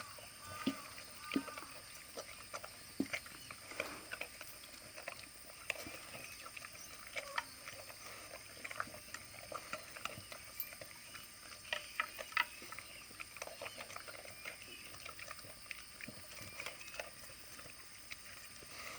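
Kai Ken dog eating milk-soaked food from its bowl: faint, irregular chewing, smacking and lapping sounds with a few sharper clicks.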